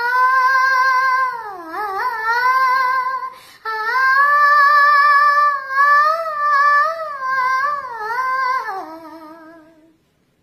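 A female voice singing an unaccompanied, wordless melody with vibrato, in two long phrases. The second phrase slides down in pitch and fades out near the end.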